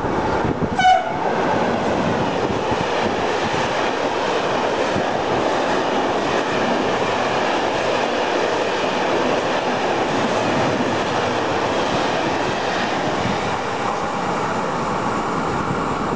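A train passing through a station with a steady rolling rush of wheels on rails, preceded by a brief horn toot about a second in.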